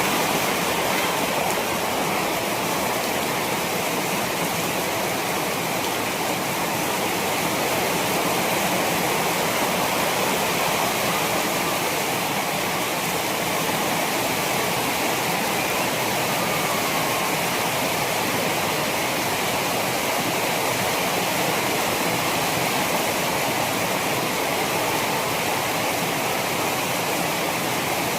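Heavy typhoon rain pouring down: a loud, steady rushing of water with no let-up.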